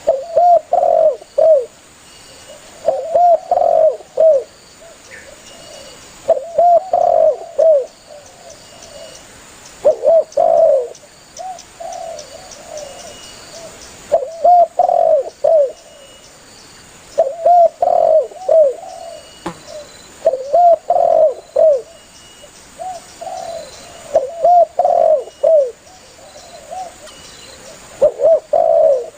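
Spotted dove (tekukur) cooing, a phrase of several low coo notes repeated every three to four seconds.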